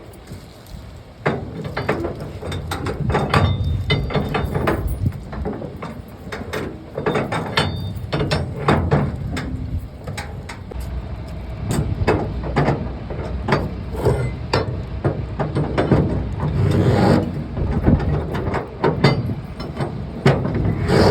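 Irregular knocks and clanks of heavy metal work over a steady low engine rumble, typical of a truck being loaded or its load being secured.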